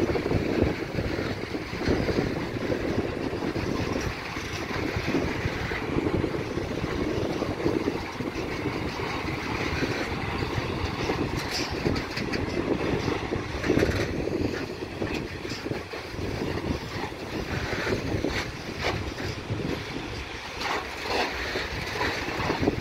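Long freight train of high-sided open-top gondola wagons rolling past: a steady rumble and clatter of steel wheels on the rails, with a few sharp knocks scattered through the second half.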